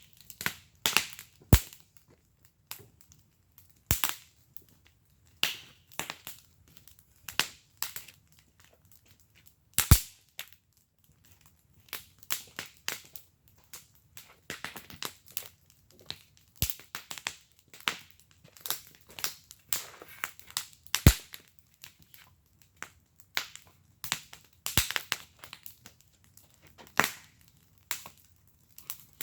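Wood fire in a fire pit crackling, with irregular sharp pops; the loudest pops come about ten and twenty-one seconds in.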